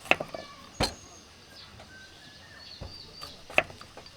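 A few sharp clicks and knocks, three of them standing out, with small birds chirping faintly.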